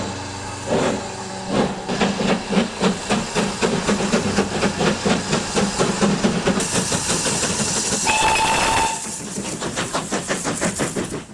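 4-6-0 steam locomotive Sierra Railway No. 3 working a train: a quick, even run of exhaust chuffs, about three to four beats a second, with steam hissing. A short whistle blast sounds about eight seconds in. The sound cuts off suddenly at the very end.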